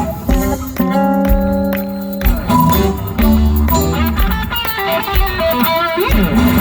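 Live rock band playing an instrumental passage: electric guitar over bass and drums, with a chord held for about a second near the start before the riffing resumes.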